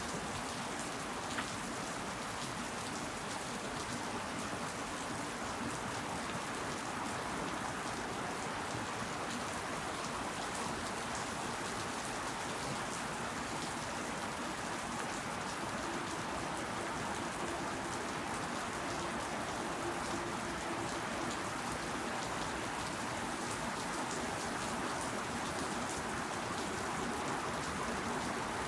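Steady rain falling, with drops pattering on leaves and surfaces.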